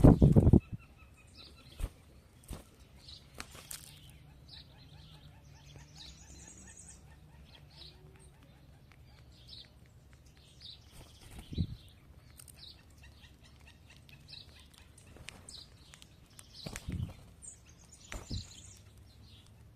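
Small birds chirping in short high notes all through, with a few sudden close flutters of wings. The loudest flutter comes right at the start, with more near the middle and twice near the end.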